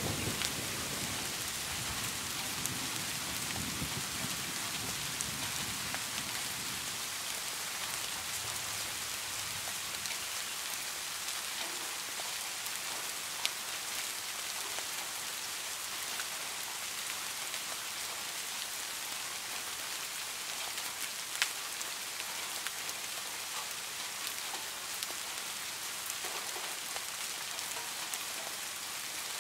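Steady rain falling, an even hiss of drops, with a low rumble of thunder dying away over the first several seconds. Two sharp ticks of single drops stand out partway through.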